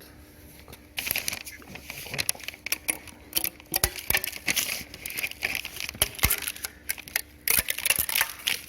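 Irregular crinkling and scraping with many sharp clicks, starting about a second in.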